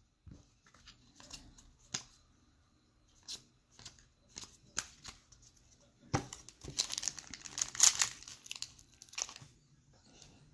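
Trading-card pack wrapper handled with scattered light crinkles and clicks, then torn open in a dense run of tearing and crinkling about six seconds in.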